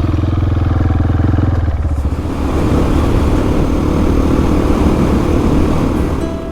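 Single-cylinder adventure motorcycle engine running steadily while under way. About two seconds in, the even low engine note gives way to a rougher, noisier rush.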